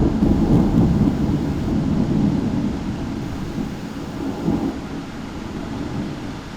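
Thunder rumbling low and gradually dying away, with a brief swell about four and a half seconds in, over a steady hiss of rain.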